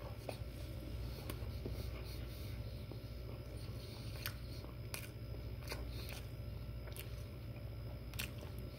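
A man chewing a bite of breakfast sandwich with his mouth closed: faint, scattered mouth clicks and smacks over a steady low hum.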